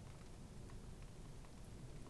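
Near silence: faint kitchen room tone with a few soft ticks.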